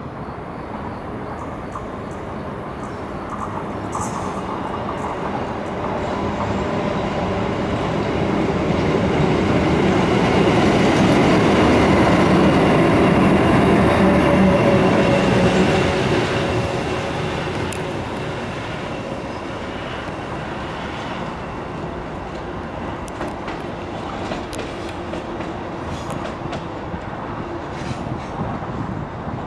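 A train passing by on the line, growing louder to a peak about halfway through and then fading as it moves away.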